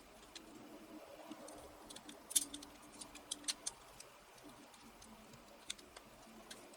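Faint scattered clicks and ticks, the loudest about two and a half seconds in, over a faint low hum.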